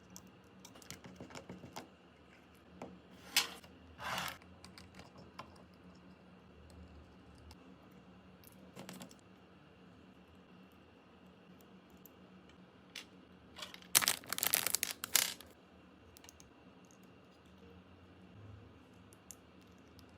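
Small clicks, taps and scrapes of hand tools working on the casing of an AirPods (3rd generation) earbud during a battery replacement. About two-thirds of the way through there is a louder burst of rapid scratching.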